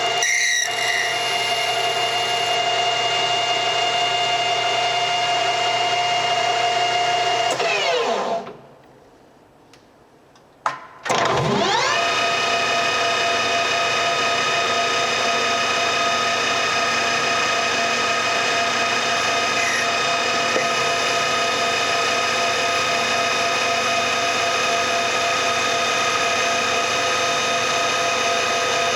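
Washino LR55A engine lathe running with a steady machine whine from its spindle drive and gearing. About eight seconds in it winds down to a stop, is quiet for a couple of seconds, gives a sharp click, then spins back up and runs steadily again.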